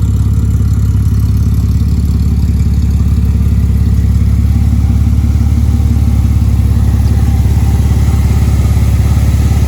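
Ford AU Falcon's 4.0-litre inline-six idling steadily through a newly built custom muffler and side-exit exhaust.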